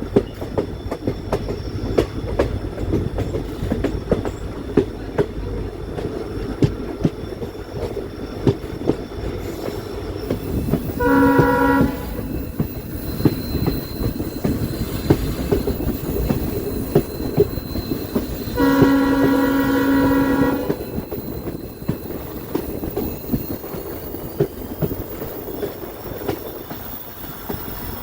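Train running on the rails, a steady rumble with frequent wheel clicks over the rail joints. The locomotive horn sounds twice: a short blast about eleven seconds in and a longer, roughly two-second blast some seven seconds later.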